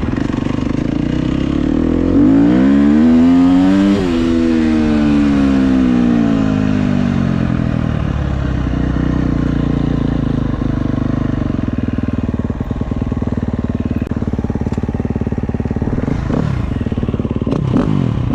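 KTM 250 SX-F dirt bike's single-cylinder four-stroke engine. The revs climb to a peak about four seconds in, then fall away over the next few seconds as the throttle closes. It then runs at low revs, with short blips of the throttle near the end.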